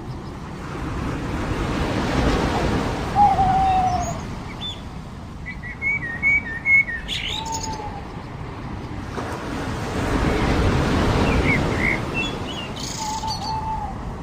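Waves washing in twice on a beach, each a slow swell of surf. Over them, birds call: a short arched hoot-like note repeating about every four to five seconds, and bursts of higher chirps about halfway through and near the end.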